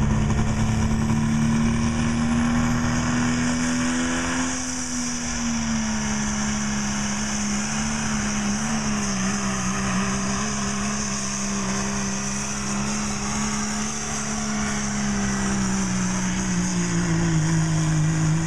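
Diesel engine running steadily at high revs, its pitch easing down slightly about four seconds in and drifting lower near the end.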